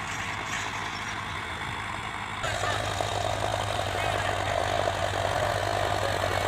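Sonalika DI 55 tractor's diesel engine running steadily. About two and a half seconds in, the sound suddenly gets louder and a higher hum is added.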